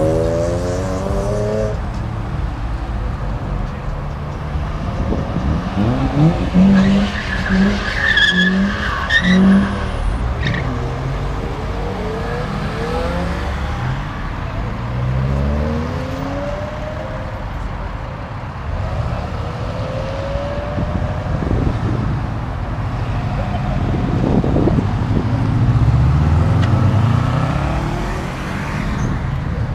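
Cars revving and accelerating away one after another, engine notes rising as each pulls off. About seven to nine seconds in there are four short, loud, evenly spaced blasts.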